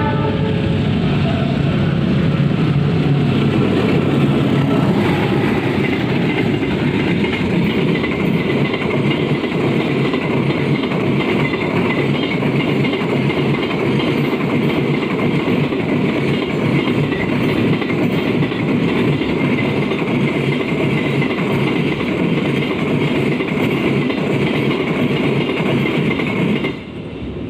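Train running on the rails, its wheels clattering over the track in a steady loud rumble that drops off suddenly near the end.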